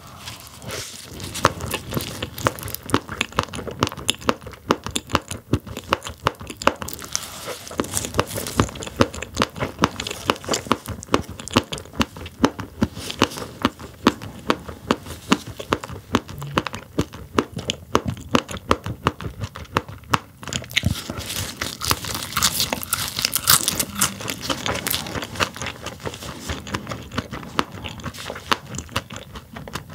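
Close-miked chewing of sailfin sandfish and its roe: a dense, rapid run of crunching and crackling as the firm eggs are bitten through, the crunches loudest and sharpest a little past the middle.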